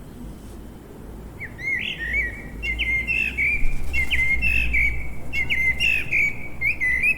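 A songbird singing a quick run of repeated chirps and short trills, starting about a second and a half in, over a low steady background rumble.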